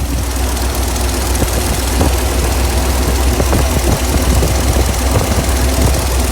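International tree truck's engine idling steadily, warm after running about ten minutes, with a scattering of short knocks through the middle.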